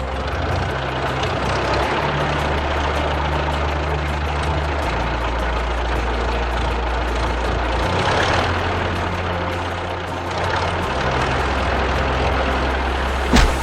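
Steady engine rumble of a heavy vehicle over background music with a bass line and a quick, even beat; a sharp click near the end.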